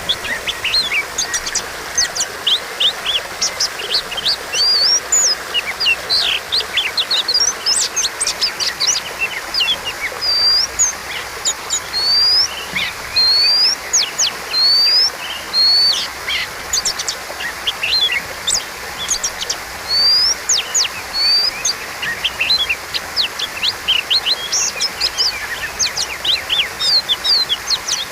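Oriental magpie-robin (kacer) singing a fast, varied song of sharp chirps and whistles. About halfway through it repeats a rising slurred whistle several times, all over a steady background hiss.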